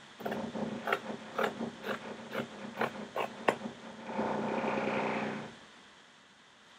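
Sharp fabric scissors snipping through cloth, about eight snips roughly two a second, followed by a steady hum of about a second that stops.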